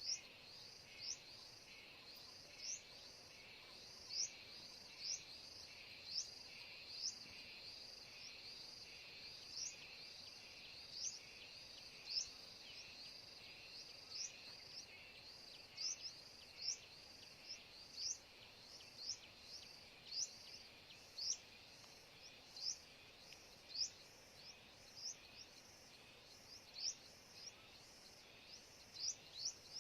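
A bird's short, sharply rising chirps, repeated irregularly about once a second, over a steady high-pitched insect drone.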